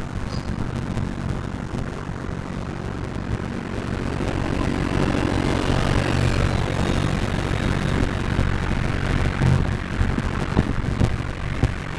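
A steady, low engine drone that swells slightly partway through.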